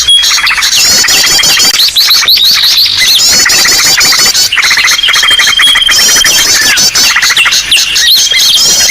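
A dense, loud chorus of many small birds calling at once, used as a bird-lure ('pikat') recording: overlapping chirps, squeaks and trills, with a run of rapid high chirps that comes back every two to three seconds and a thin held whistle that comes and goes.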